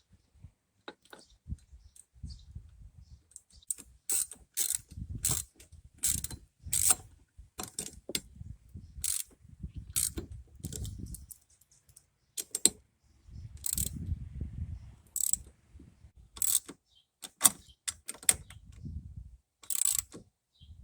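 Hand ratchet wrench clicking in short, irregular bursts while nuts are run down onto bolts, with low knocks and handling noise between strokes.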